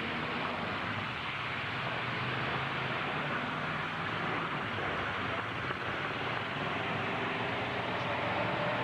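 Demolition-derby truck engines running under a steady wash of noise, with a faint rise in pitch near the end.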